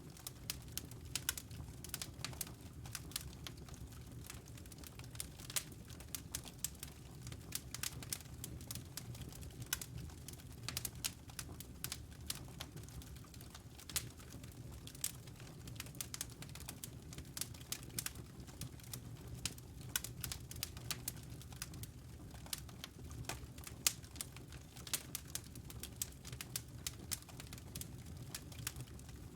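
Wood fire crackling in a fireplace: many irregular sharp pops and snaps over a low, steady rumble.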